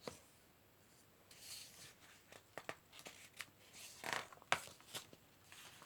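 Faint paper rustling followed by a few soft taps and clicks as a picture book's page is handled and turned.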